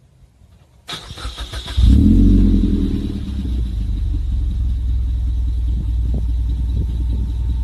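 Suzuki Swift Sport's 1.6-litre four-cylinder engine starting through a Trust GReddy aftermarket exhaust. The starter cranks for about a second, the engine catches about two seconds in with a brief rev flare that rises and falls, then it settles into a steady idle.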